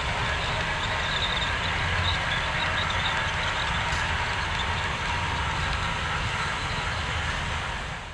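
HO scale model train running on the layout: a steady rumble of the locomotive's motor and wheels on the track, easing slightly near the end.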